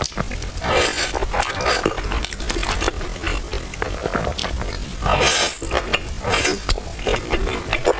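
Close-miked eating sounds: a person chewing and biting food, with irregular wet mouth noises and small clicks.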